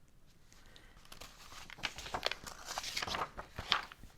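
Paper rustling and crinkling as a book's page is handled and turned, a run of small crackles that starts about a second in and grows louder.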